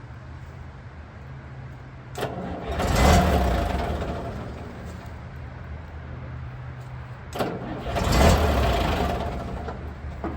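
Tractor engine running with a steady low hum, revved up twice about five seconds apart, each rev rising quickly and dying away slowly.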